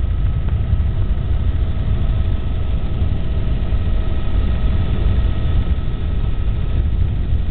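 Helicopter in flight: a steady, loud rumble of rotor and engine with a faint steady whine over it.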